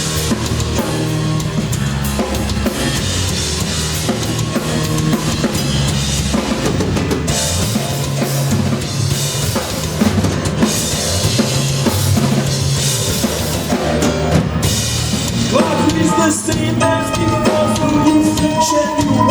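Live rock band playing loud without vocals: a drum kit hits hard with snare and bass drum under a heavy bass line. Held, higher pitched notes come in about three-quarters of the way through.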